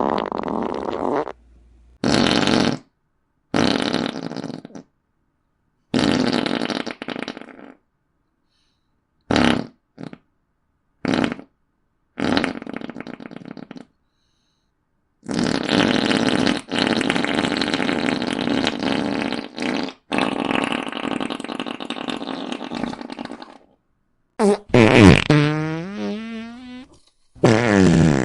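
A string of fart sound effects, about ten short ones of a second or so each separated by brief silences. A long drawn-out one lasts about eight seconds in the middle, and near the end a higher, pitched one wavers up and down.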